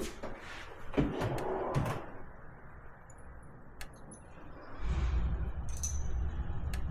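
Metal parts and tools being handled while nerf bars are taken off a quad: a few knocks and clanks, the sharpest about a second in. From about five seconds in, a steady low rumble sets in.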